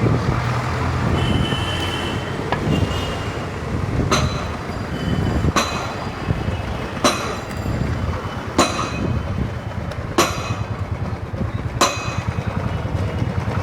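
Busy street ambience with a steady low traffic rumble. From about four seconds in, a metal object is struck six times at an even pace, about a second and a half apart, each strike ringing briefly.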